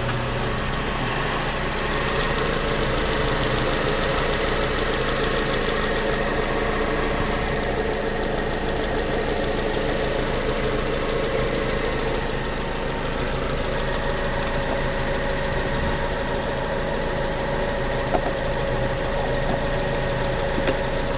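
2006 Honda Accord engine idling steadily and evenly, running smoothly after its no-start problem was fixed.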